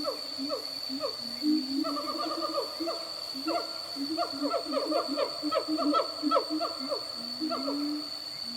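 Wild animal calls: a rapid series of short falling calls, several a second, over a low wavering hoot-like tone, with a steady high-pitched insect drone throughout.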